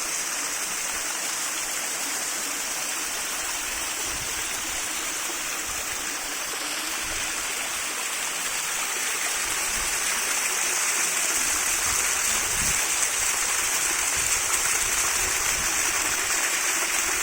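Waterfall: falling water rushing steadily, growing a little louder about two-thirds of the way through.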